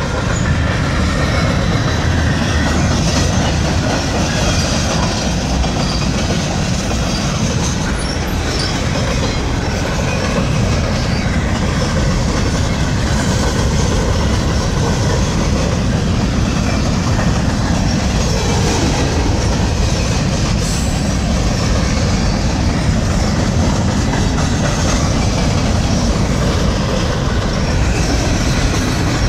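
Freight train of hopper cars and boxcars rolling past close by: a loud, steady clatter of steel wheels on the rails.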